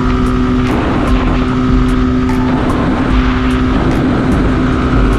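Suzuki Gixxer single-cylinder motorcycle engine holding a steady note at highway speed, close to its top speed, with heavy wind rumble on the microphone.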